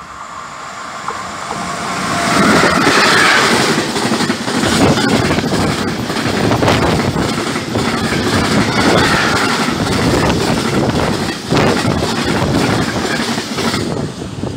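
Freight train of tank wagons hauled by an electric locomotive passing close by. It builds up over the first two seconds as it arrives, then keeps up a steady rumble with the clatter of wagon wheels over the rails.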